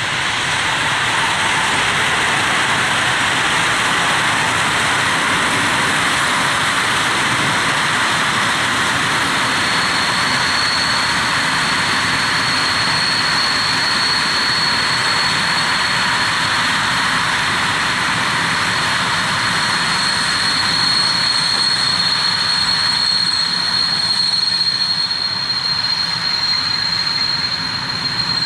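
Long passenger train rolling past at steady speed: a continuous rush of coach wheels on the rails. A thin, steady high whine joins about ten seconds in.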